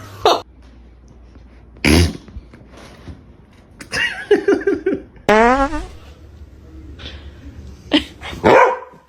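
A string of short sounds: fart noises mixed with a pet dog's barks and pitched whining calls, one of them sweeping in pitch about five seconds in.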